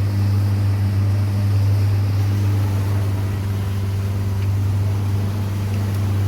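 Boat engine running steadily under way: a low, even drone with no change in pitch.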